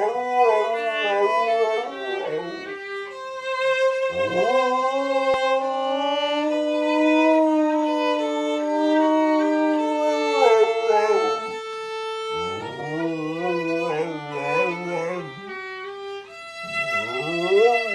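A violin playing slow notes while a dog howls along with it in long, wavering howls, several times over.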